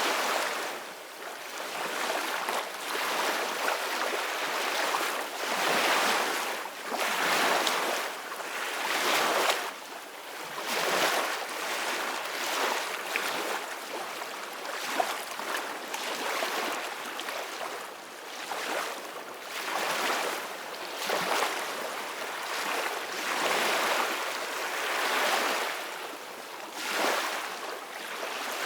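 Ocean waves breaking and washing onto a beach, the surf hiss swelling and falling back every few seconds.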